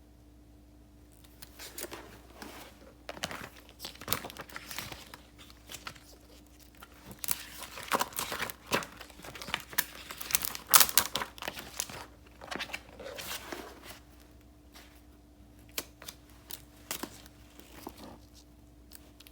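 Paper and sticker sheets being handled: irregular rustling and crinkling with sharp crackles, busiest in the middle stretch.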